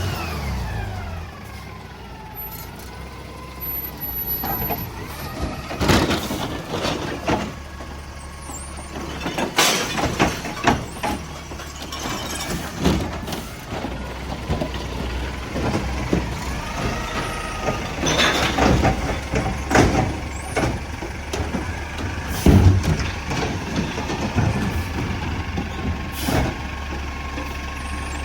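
Mack garbage truck packing a load: the diesel engine runs under the hydraulics, a falling whine sounds in the first couple of seconds, and trash bangs and crunches repeatedly as it is compacted, with an air brake hiss.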